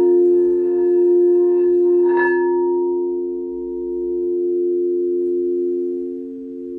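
Singing bowls ringing in a sustained, slowly wavering drone of a few low tones. About two seconds in, a higher note is struck and rings out over it.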